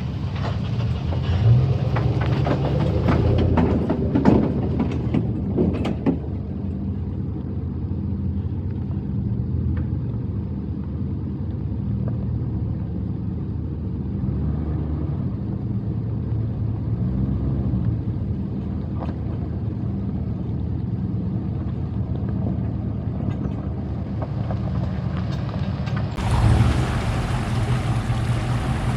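A vehicle engine running steadily, with scattered knocks and rattles in the first few seconds; near the end it turns suddenly louder and noisier.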